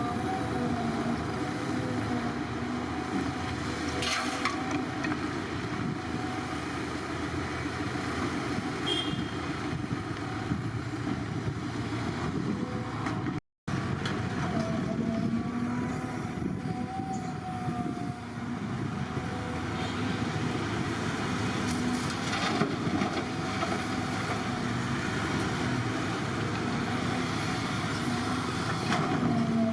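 Diesel engine of heavy earthmoving machinery running steadily, its pitch wavering a little as the load changes, with a few sharp knocks. The sound cuts out for an instant about halfway through.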